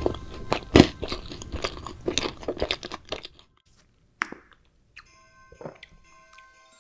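Loud, close-miked crunchy chewing and biting of food for about three seconds, loudest just under a second in. It stops suddenly, a single click follows, then faint background music with held tones comes in.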